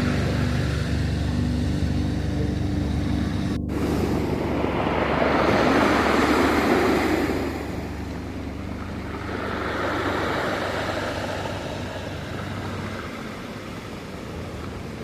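Ocean waves washing in and drawing back in two slow surges, the first cresting about six seconds in and the second about ten seconds in. In the first few seconds a few held low music notes sound over the surf and end about four seconds in.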